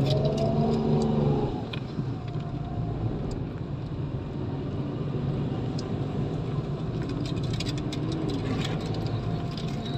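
Steady low rumble of a car driving, with scattered light ticks over it.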